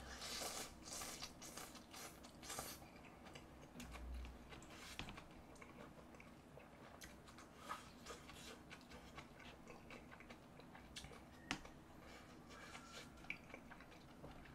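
Faint chewing and mouth sounds from a mouthful of mala tang noodles and enoki mushrooms, most frequent in the first few seconds and thinning to a few small clicks after that.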